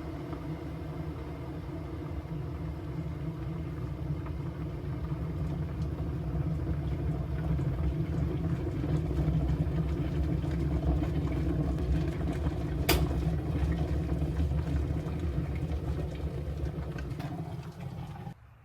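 A kitchen appliance running with a steady hum and rumble that grows gradually louder, with one sharp click about two-thirds of the way through, then stopping abruptly near the end.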